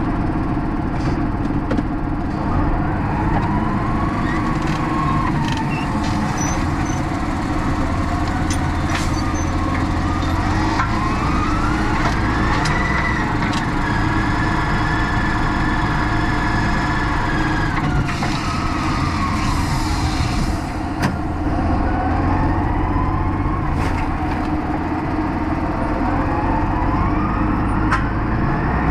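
Tractor engine running steadily with a whine that rises and falls in pitch several times, as the tractor works stacking wrapped silage bales.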